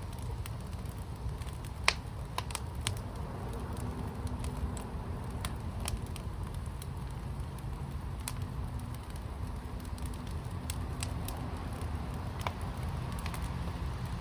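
Wood fire burning in an outdoor firepit: irregular crackles and sharp pops, the loudest pop about two seconds in, over a steady low rumble.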